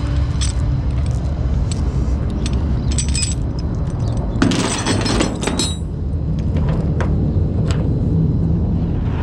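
Tow-truck chains and metal hooks clinking and jangling in short rattles, with a longer rattle about four and a half seconds in, over the tow truck's engine running steadily.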